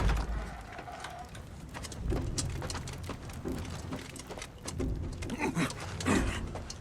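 Soundtrack of a fight scene from the show: scattered sharp hits and clashes throughout, with short grunts and cries.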